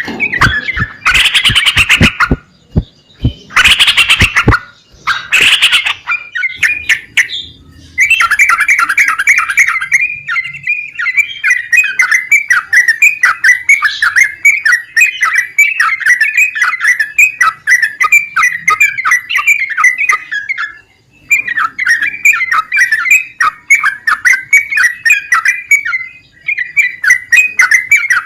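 Yellow-vented bulbul singing: a few loud harsh calls in the first five seconds, then from about eight seconds a fast, continuous run of short chattering notes with brief pauses.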